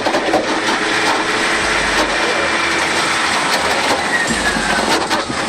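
Loud, continuous rattling and grinding of heavy machinery, with scattered clattering knocks and a short falling metallic squeal about four seconds in.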